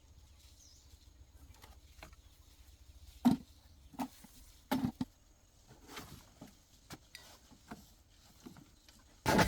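A few scattered knocks and clicks of metal being handled, then right at the end the car's engine suddenly starts up loudly.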